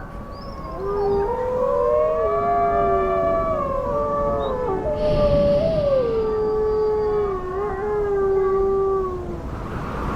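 A pack of gray wolves howling in chorus: several long howls overlap, each holding a pitch and then sliding up or down, dying away just before the end.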